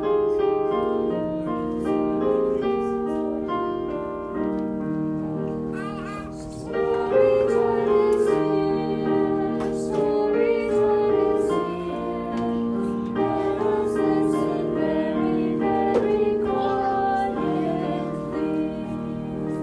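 Piano playing a children's song, held chords under a simple melody, with some singing along.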